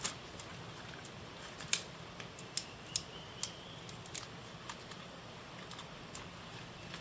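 A series of sharp, irregular clicks and snaps, about a dozen, the loudest near the start and around two to three seconds in, over a faint high, thin steady tone in the background.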